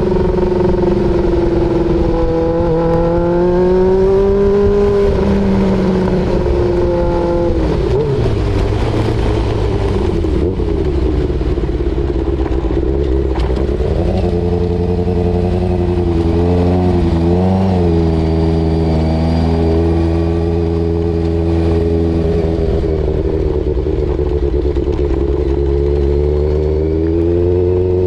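Kawasaki ZZR1100 (ZX-11) inline-four engine running through a new aftermarket exhaust while the bike is ridden, its pitch swelling and easing with the throttle. The pitch drops sharply about 7 seconds in and settles at a new level about halfway through.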